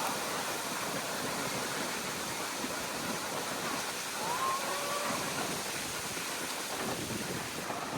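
Steady rushing of river water and wind, with a faint gliding call about four seconds in.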